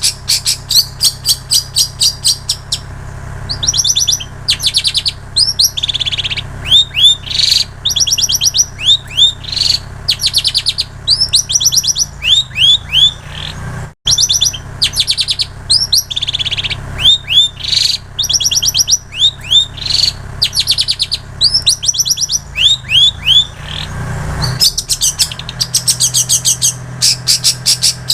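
Long-tailed shrike (cendet) singing a fast, high, chattering song of repeated trills and short downslurred whistles, a mimic's song filled with plain prinia and canary phrases. A steady low hum runs underneath.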